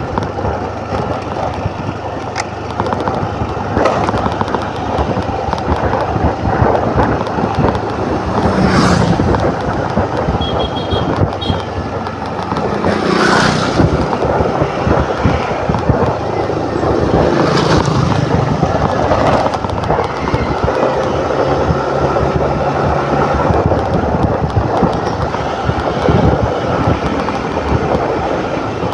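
Motor scooter riding on a road: steady wind rush on the microphone over the scooter's engine, with other vehicles whooshing past about three times and a short beeping about ten seconds in.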